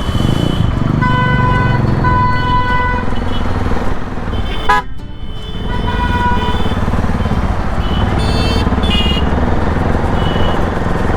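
Bajaj Pulsar NS200 motorcycle running at road speed through city traffic with its aftermarket full-system exhaust, under steady road and wind noise. Vehicle horns toot several short times throughout.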